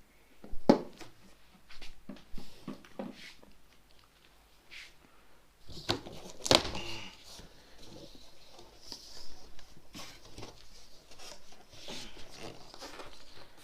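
Packaging being handled and unwrapped: crinkling and tearing of plastic and cardboard, with scattered knocks of items being picked up and set down, two of them louder than the rest.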